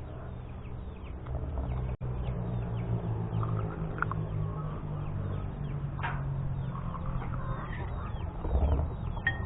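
Chickens clucking and small birds chirping over a low, steady hum.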